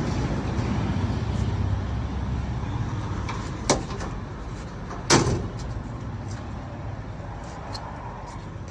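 A steady low mechanical rumble, like a running engine, with two sharp knocks about a second and a half apart.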